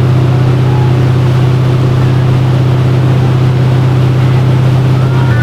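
Motorboat engine running at a steady speed, a loud constant low drone with a hiss of water and wind over it.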